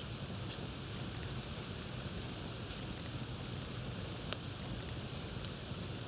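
Wood campfire crackling: a steady hiss of burning wood with many small snaps, and one louder pop a little over four seconds in.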